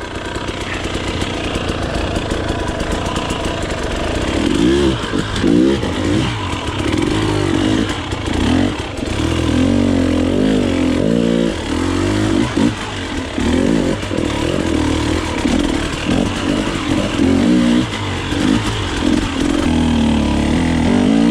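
Dirt bike engine on the trail, its pitch rising and falling again and again as the throttle is worked, from about four seconds in.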